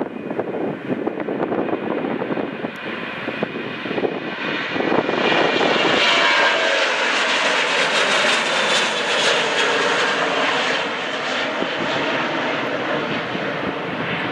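Jet airliner's engines passing close by, a rising rush with a high turbine whine that peaks in the middle and then slowly eases off. Wind buffets the microphone at the start.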